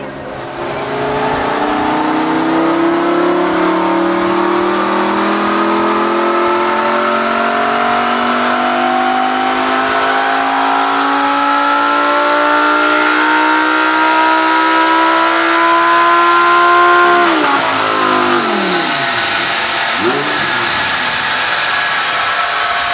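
Audi R8's 5.2 FSI V10 through a valved Armytrix exhaust, the revs climbing slowly and steadily under load for about seventeen seconds. Then the pitch drops abruptly as the throttle is closed, and the revs fall and rise again a few times near the end.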